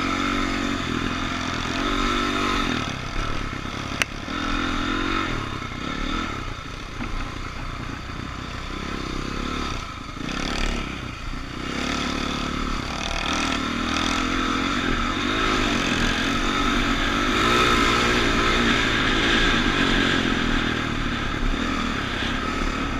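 Dirt bike engines running and revving, their pitch rising and falling as the bikes ride the track. A sharp click comes about four seconds in.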